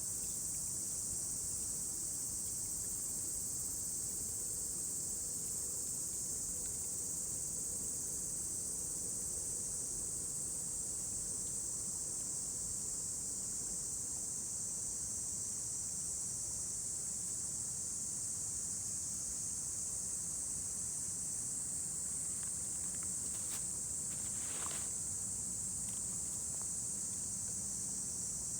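A steady, high-pitched chorus of summer insects droning without a break, with a few faint clicks about three-quarters of the way through.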